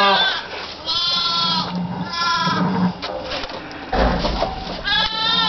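Goat bleating: several drawn-out, wavering calls, one after another, each rising and falling in pitch. A dull low thump comes about four seconds in.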